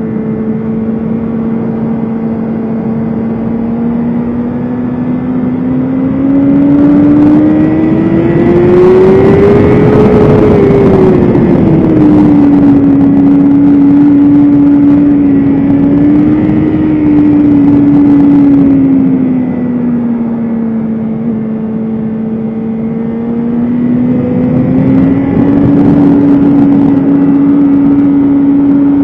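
BMW S1000RR's inline-four engine running hard at track speed. The engine note holds steady, climbs to a peak about ten seconds in, falls back and holds, dips lower around twenty seconds, then climbs again near the end.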